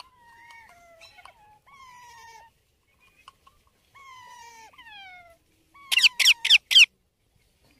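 Baby Indian ringneck parakeet calling: a series of soft, drawn-out falling calls, then about six seconds in four loud, shrill, quick screeches in a row.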